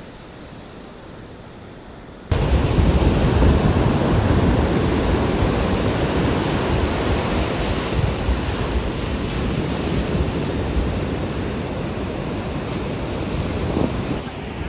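Ocean surf with wind rumbling on the microphone: a steady rushing noise that jumps sharply louder about two seconds in.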